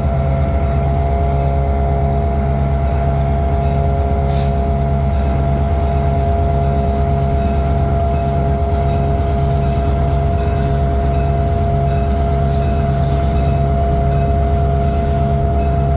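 A diesel-hauled train approaching: a steady, loud low rumble with a regular pulsing beat, and two steady tones held throughout.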